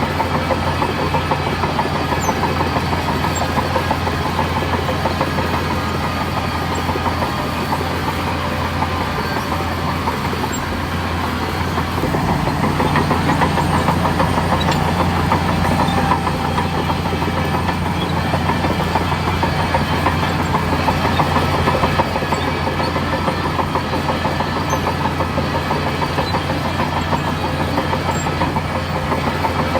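Bulldozer's diesel engine running steadily with a rattling clatter, growing louder for about ten seconds in the middle before settling back.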